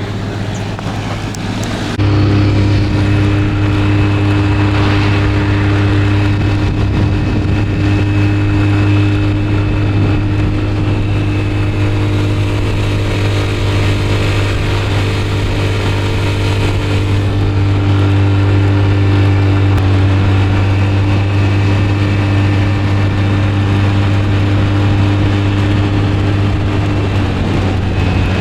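Motor scooter engine running at a steady speed during a ride, with road and wind noise. It gets louder about two seconds in, then holds an even note.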